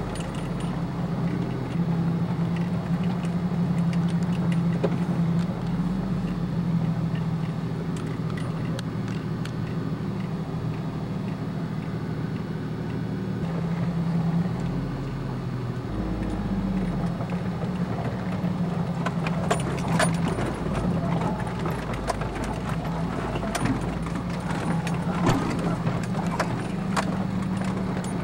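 Engine of a 4x4 running steadily at low speed on a rough dirt track, heard from inside the cabin, with the body and loose items rattling and clicking over bumps, more often from about 19 seconds in.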